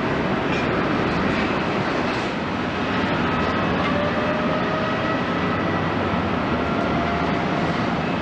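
Jet airliner engines running, a steady loud rush with faint whining tones that drift slowly in pitch.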